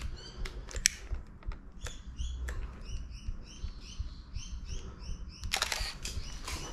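A small bird chirping over and over, short high notes about three a second for a few seconds. A few sharp clicks come before it, the loudest about a second in, and a short rustling scrape follows near the end.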